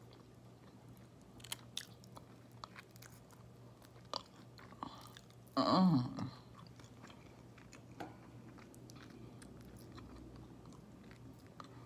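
A person chewing and biting fried chicken wings up close, with scattered small wet clicks and crunches. A brief vocal sound about six seconds in.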